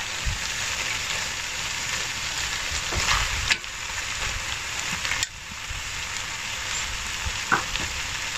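Browned turkey goulash sizzling in a hot cast-iron Dutch oven over charcoal briquettes under freshly added carrot and kohlrabi cubes, while metal tongs push the vegetables about. Sharp clicks come about three and a half and five seconds in, and the sizzle drops a little after the second.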